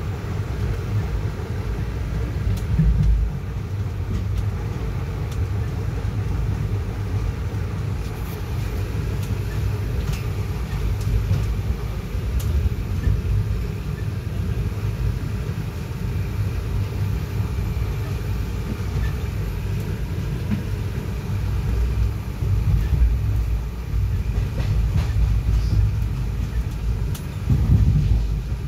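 Express passenger train running at speed, heard from on board: a steady low rumble of the wheels on the track, with a few faint clicks now and then.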